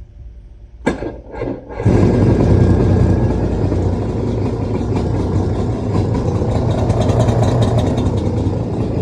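Yamaha WaveRunner II jet ski's two-stroke engine firing up: a couple of brief sputters, then it catches about two seconds in and runs steadily.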